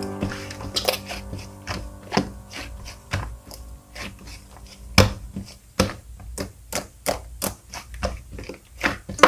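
Slime being pressed and squished by hand, giving irregular sharp clicks and pops that come faster in the second half, with soft piano music underneath.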